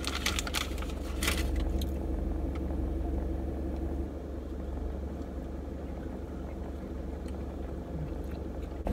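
Car engine idling, a steady low hum heard inside the closed cabin. Paper crinkles a few times in the first second or so.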